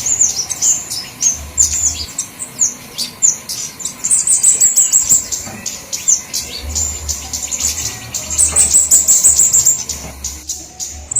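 Flowerpeckers chattering in a lure-call recording: a dense stream of rapid, thin, high-pitched chips and ticks, with a short lull near the end.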